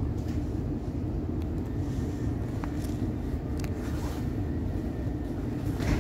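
Steady low hum and rumble of a stationary Siemens Nexas electric train's onboard equipment, with a few faint clicks and a brief louder rushing noise near the end.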